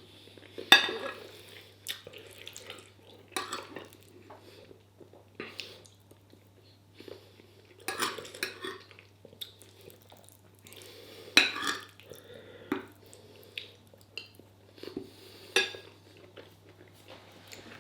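Cutlery clinking and scraping on a plate during a meal, in short scattered strokes every second or two, over a faint steady low hum.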